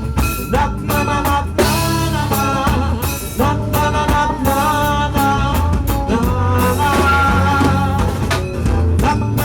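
Live band playing an instrumental passage between verses. A drum kit and bass keep a steady groove under a gliding melody line.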